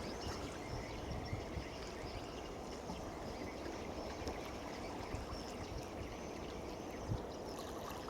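Steady outdoor ambience: an even wash of noise like water or wind, with occasional short low thumps and faint high chirps.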